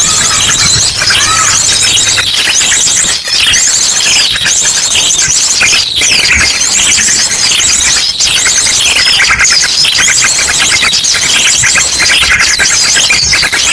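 Bird-lure recording: a loud, dense chorus of small songbirds chattering and calling over one another, mixed with ashy drongo song. Short rapid high trills repeat about once a second throughout.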